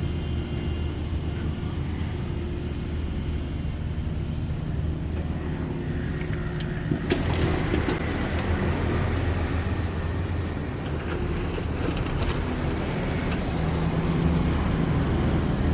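Diesel engine of a Cat 305.5E2 mini excavator running steadily under hydraulic work, with a short burst of clattering and scraping about seven seconds in.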